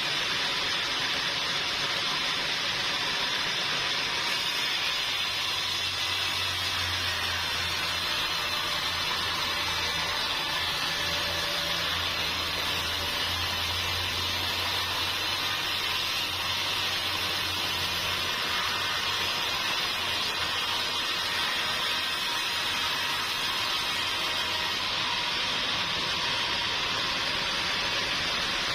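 Sawmill machinery running with a steady hiss, joined by a low hum that comes in about five seconds in and fades out after about eighteen seconds.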